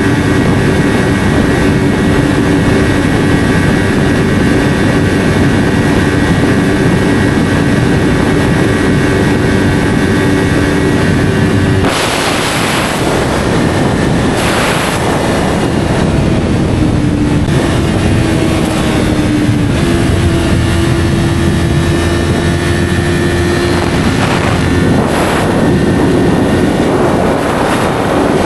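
Yamaha R3's parallel-twin engine through an SC Project slip-on exhaust while riding. It holds a steady note, changes abruptly about twelve seconds in with rushes of noise, then its pitch shifts in steps.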